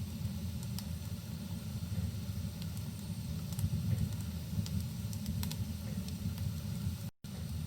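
Rain with a crackling wood fire: a steady low rumble dotted with scattered sharp pops and crackles from the burning logs. The sound cuts out for an instant about seven seconds in.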